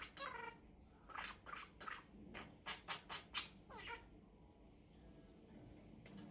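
Budgerigar chirping: a quick run of short, squeaky calls, a few of them sliding down in pitch, that stops about four seconds in.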